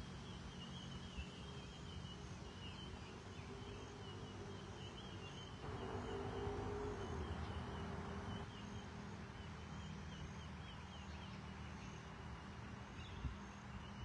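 Outdoor ambience with small birds chirping steadily throughout. About six seconds in, a louder rushing noise comes up and lasts about three seconds.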